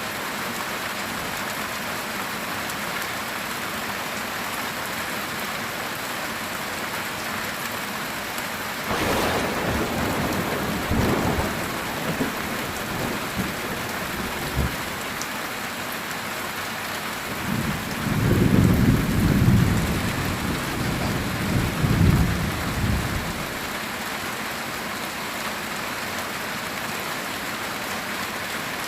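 Heavy rain drumming steadily on a metal tin roof, with a crack of thunder about a third of the way in that rumbles on for a few seconds, then a longer, louder roll of thunder past the middle.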